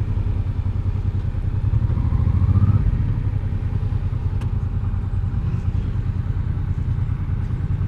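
Honda Deauville 650's V-twin engine running steadily under way, a low, even pulsing.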